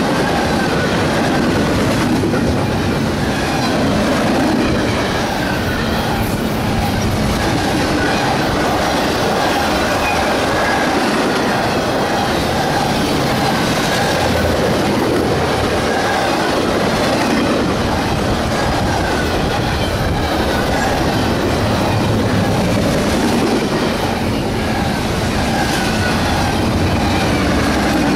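Freight cars of a double-stack intermodal train rolling past close by: a steady loud rumble and clatter of steel wheels on the rails, with faint wavering wheel squeal.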